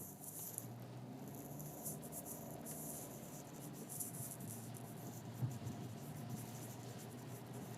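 Steady low hum of a car's engine and tyres heard from inside the cabin, with a faint crackling hiss of tyres on a wet road.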